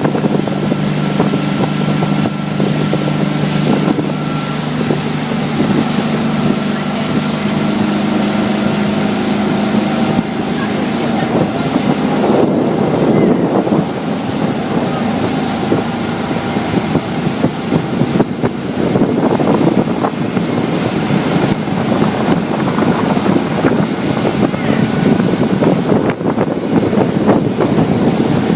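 Motorboat engine running with a steady hum, with wind buffeting the microphone and water rushing past the hull. The rushing takes over after about ten seconds.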